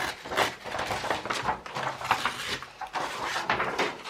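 Handling a piece of old sheet-music paper: a string of irregular short rustling and crinkling sounds.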